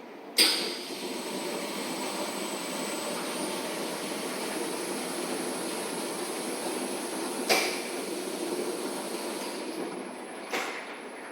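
Large 39 kg commercial washing machine running: a steady rushing hum with three sharp knocks, the loudest about half a second in and the others near the middle and end.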